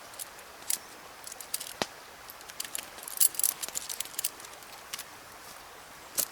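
Irregular light clicks and crackles, with a cluster about three seconds in and a single sharper tick near two seconds in.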